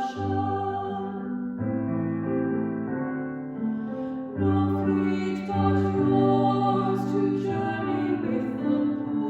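Keyboard music playing a slow hymn tune in sustained chords over a held bass line, the chords changing every second or two.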